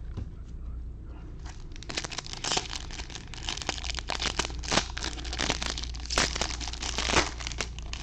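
Crinkling and crackling of a baseball card pack's wrapper being handled, a dense run of sharp crackles starting about two seconds in and stopping near the end.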